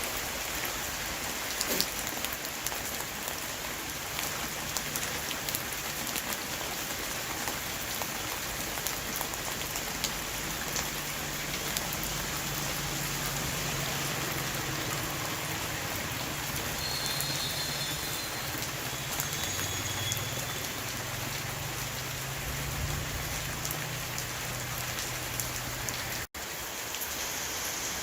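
Rain shower falling steadily on a roof, an even hiss with many small drop ticks. A faint low hum joins it about halfway through, and the sound cuts out for an instant near the end.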